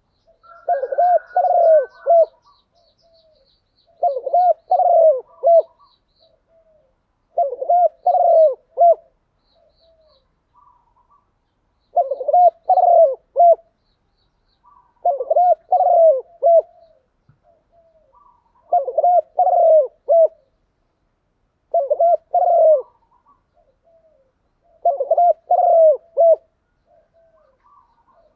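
Spotted dove cooing: about eight repeated phrases, one every three to four seconds, each a quick run of low, arching coo notes. A small bird chirps faintly in the background during the first half.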